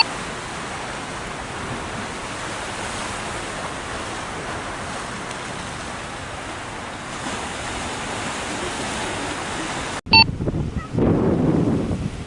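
Steady wash of ocean surf. About ten seconds in there is a brief dropout and short beep, after which a rougher, gusting rumble of wind on the microphone follows.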